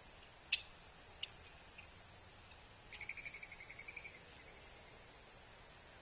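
Wild bird calls: a few short, sharp high call notes, then a rapid trill of evenly spaced notes lasting about a second, and one very high note just after it.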